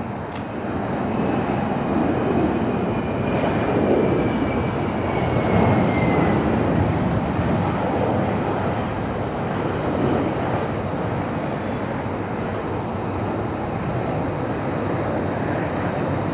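Jet aircraft passing, its engine roar swelling about a second in and staying loud, with a whine that falls in pitch over the first few seconds. Faint, regular high chirps of insects run underneath.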